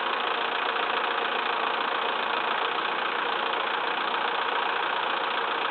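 Massey Ferguson 2635 tractor's diesel engine running steadily.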